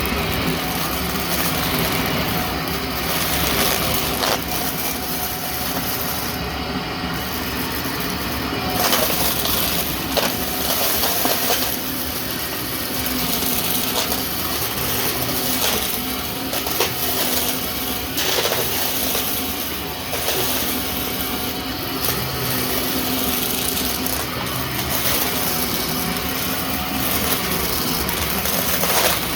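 Vacuum cleaner running with its brushroll on: a steady motor hum and suction noise, with a few short ticks and small swells in loudness as it is pushed along. The vacuum is clogged.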